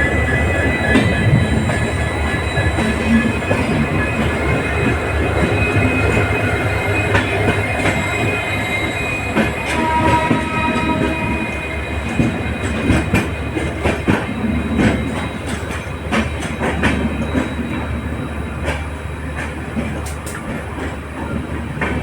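Running noise of an LHB passenger coach at speed: a steady rumble with the clatter of the wheels over the track and a few short clicks. A brief wheel squeal rises about ten seconds in.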